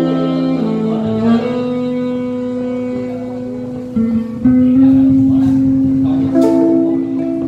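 Saxophone holding long, slow notes over acoustic guitar accompaniment, in a slow ballad. The melody moves to a new note about a second in and again just after four seconds, and that last note is held to the end.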